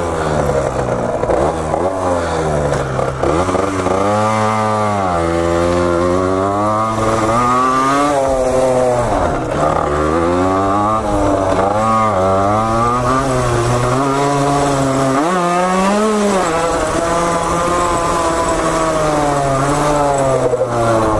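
Small two-stroke dirt bike engine under way, its pitch climbing and dropping again and again as it is revved up and backed off.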